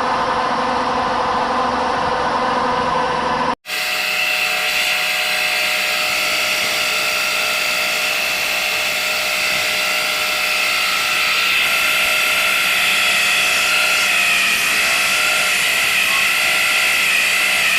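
Metal-turning machine, a lathe or spinning lathe, running steadily with a machine whine held at a few fixed pitches. An abrupt cut about three and a half seconds in switches to a different shot of the machine running.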